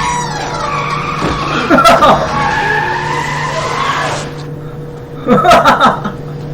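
Car tyres squealing in a long skid that stops about four seconds in, with a loud hit near two seconds and another loud burst of sound just before the end, as a car screeches to a halt just short of a man lying in the street.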